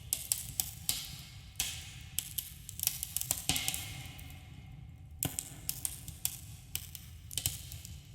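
Campfire crackling: irregular sharp pops and snaps, some in quick clusters, over a low steady rumble and a soft hiss of burning wood.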